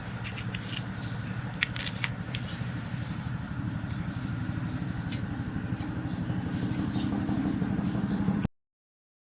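Wood fire burning in a small folding wood stove: a steady low roar with a few sharp crackles and snaps around the first two seconds. It cuts off suddenly near the end.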